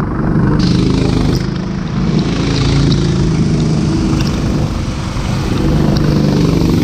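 Go-kart engines running hard, their pitch rising and falling as they accelerate and lift off.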